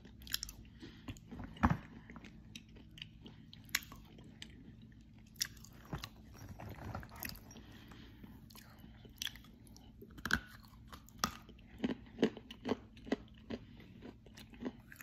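A person chewing dry edible chalk close to the microphone: irregular sharp crunches, a dozen or more, with softer mouth sounds between them.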